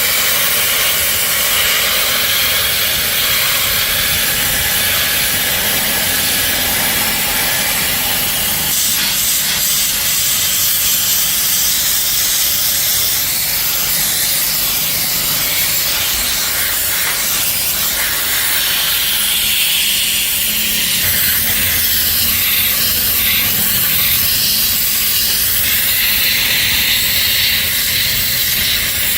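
Steady, loud hiss of a spray or air jet, its tone shifting about nine seconds in and again around twenty seconds in.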